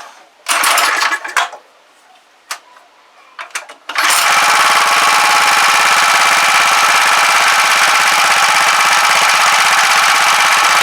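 Small petrol engine of a scrap Clarke pressure washer: a few short rasps and clicks, then about four seconds in it starts and runs steadily and loudly as it warms up.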